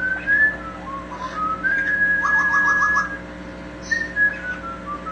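Amazon parrot whistling a tune: a string of clear whistled notes stepping up and down. Near the middle comes a long held note with a fast warbling trill beneath it.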